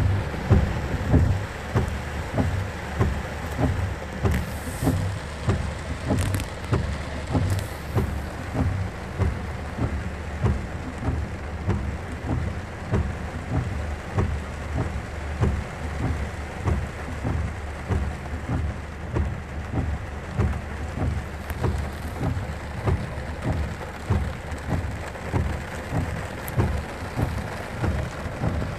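Heavy rain pouring down, with a steady patter and regular low thuds about twice a second underneath.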